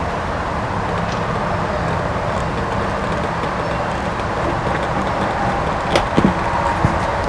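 Steady low mechanical hum in the background, with a few light clicks about six seconds in as the wires and butt connectors are handled.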